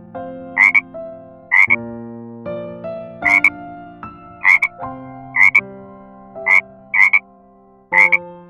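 A frog croaking, about eight short calls roughly a second apart. Underneath is a simple tune of held notes.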